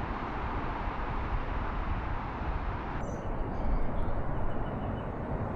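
Steady outdoor rumble and hiss with no distinct event. The background changes abruptly about three seconds in.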